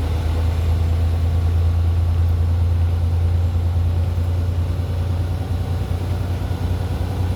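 Semi truck's diesel engine droning steadily under way, heard from inside the cab along with road noise.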